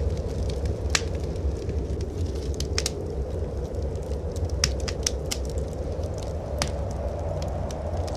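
Wood fire crackling in a fireplace, with scattered sharp pops and snaps over a steady low rumble of blizzard wind.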